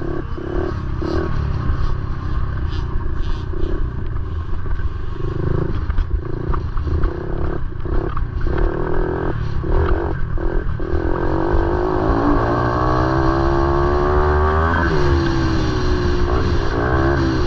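Motorcycle engine running, with a rising whine as it accelerates over several seconds from about two-thirds of the way in, then a sudden drop in pitch before it climbs again briefly near the end.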